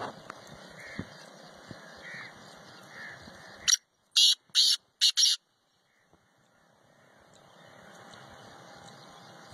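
Black francolin calling loudly: four notes in about a second and a half, a short first note followed by three longer ones, about four seconds in. Faint chirps of other birds come before it.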